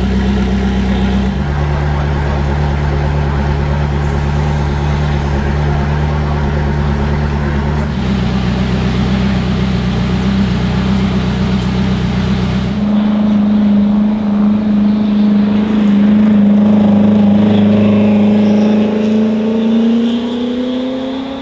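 Koenigsegg Jesko Absolut's twin-turbo 5.0-litre V8 idling, then holding steady low revs before accelerating near the end, the pitch rising as the car pulls away.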